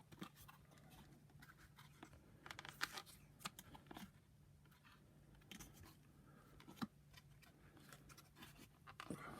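Faint, scattered clicks, taps and scrapes of plastic parts being handled and pressed together while the housing of a Shark vacuum power nozzle is fitted over its pin and spring.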